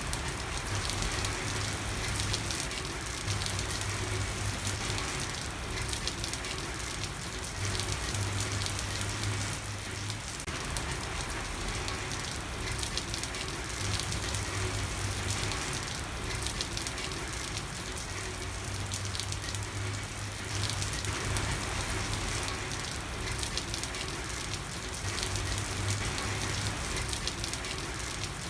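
Steady rain falling, with a low hum that swells and fades every few seconds.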